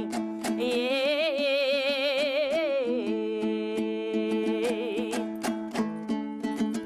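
Kazakh terme singing: a singer holds a long, wavering vowel over a strummed dombra. About five seconds in the voice stops, and the dombra carries on strumming alone.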